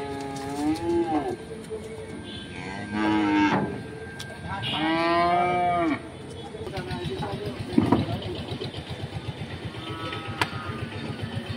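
Cattle mooing several times, the longest and loudest call about five seconds in and a fainter one near the end. A fast, even low pulsing runs underneath in the second half.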